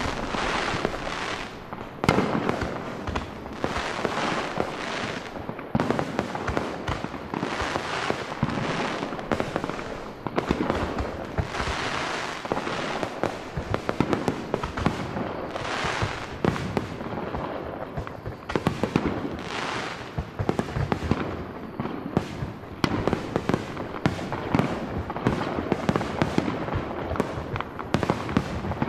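Fireworks finale: a continuous barrage of shell bursts, bangs and crackling, one after another with no pause.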